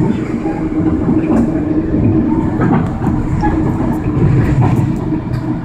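Inside an Amtrak passenger car on a moving train: a steady low rumble and hum, with scattered light clicks from the running gear.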